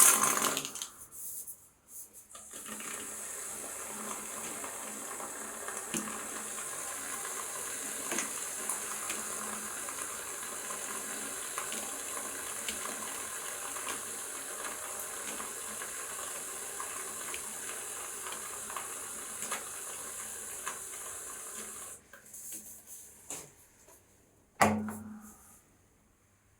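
Aerosol can of shaving foam spraying. A sharp burst at the start is followed by a long steady hiss of foam being dispensed, which stops after about twenty seconds. A short knock comes near the end.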